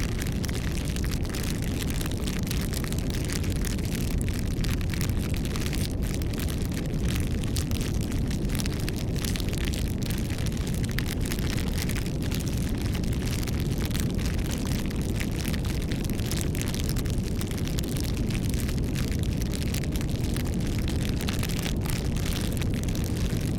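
Campfire burning: a steady low rush with many small crackles and pops from the burning wood throughout.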